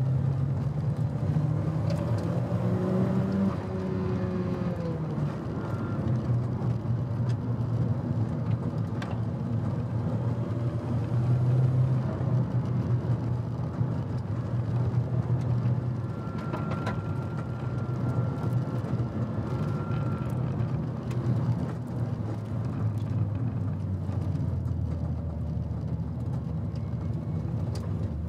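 Nissan Silvia S15 Spec R's turbocharged SR20DET four-cylinder engine heard from inside the cabin, running hard with the revs rising and falling in the first few seconds, then holding steadier. A thin high tone comes in for about four seconds past the middle.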